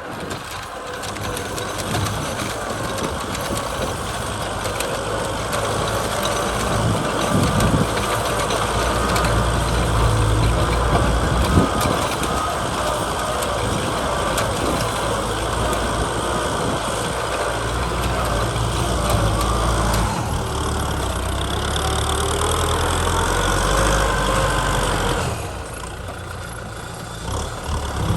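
Kubota tractor's diesel engine running steadily while plowing a field, quieter for a couple of seconds about 25 seconds in and picking up again near the end.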